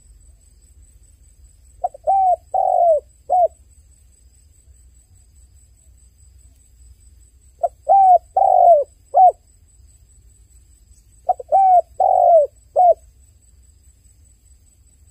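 A dove cooing in three phrases a few seconds apart. Each phrase has four coos: a short one, two longer ones and a short closing one.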